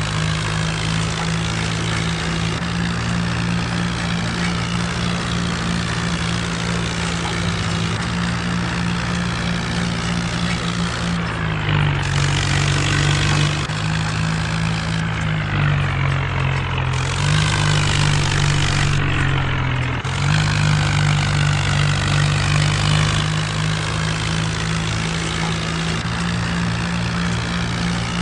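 Mahindra Arjun tractor's diesel engine running steadily while pulling a rotavator, its note sagging briefly three times in the middle as the load comes on.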